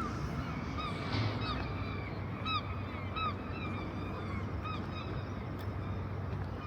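Geese honking: a string of short, arched honks, several in the first few seconds, then tailing off, over steady outdoor city background noise.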